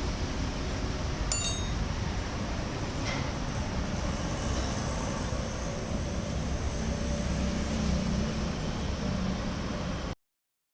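Steady low rumble of road traffic, with a sharp metallic click about a second in and a fainter one about three seconds in. The sound cuts off to silence near the end.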